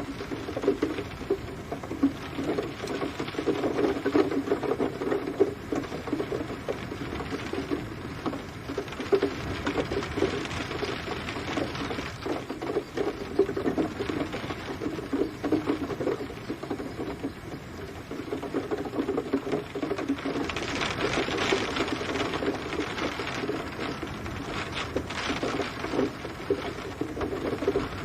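Rain pattering densely on a hard surface, a steady stream of close drop hits. The hiss grows brighter about two-thirds of the way through.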